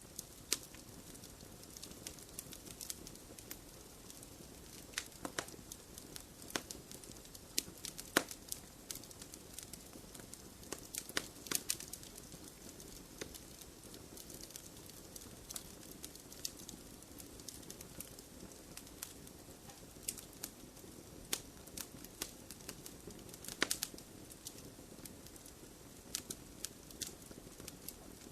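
Wood fire crackling and popping in a fireplace: a steady soft hiss of flames with irregular sharp pops and snaps, a few louder ones about eight, eleven and twenty-four seconds in.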